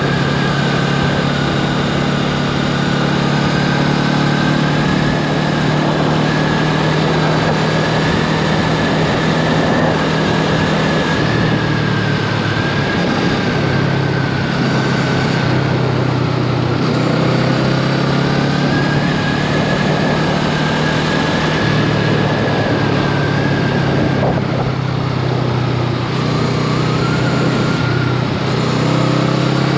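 Honda Rebel 500's 471 cc parallel-twin engine running under way at road speed, its pitch stepping up and down a few times as the throttle or gear changes.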